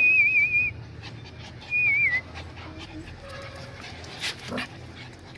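Small dog whining: a high, wavering whimper about two-thirds of a second long at the start, then a shorter one about two seconds in.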